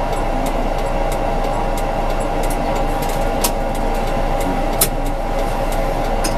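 Steady electrical hum of a tram heard from the driver's cab, with faint, evenly spaced ticking and a couple of sharper clicks a few seconds in.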